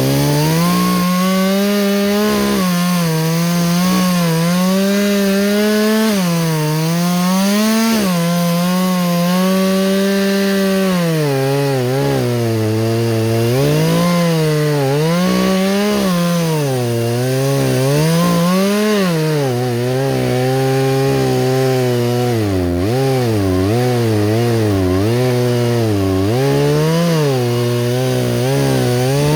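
Chainsaw cutting wood at steady high revs. Its engine note repeatedly sags as the chain loads up in the cut, then picks back up.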